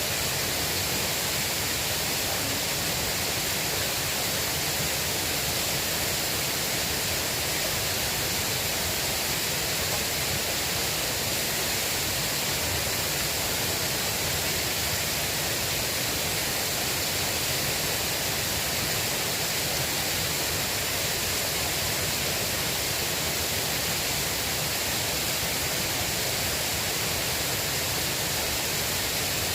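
River water rushing steadily: an even, unbroken hiss with no distinct splashes or knocks.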